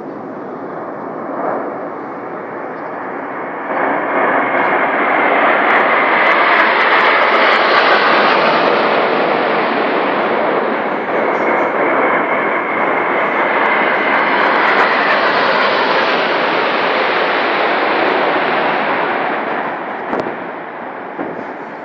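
Military aircraft flying low overhead: engine noise that swells up about four seconds in, peaks twice as the aircraft pass, and fades near the end.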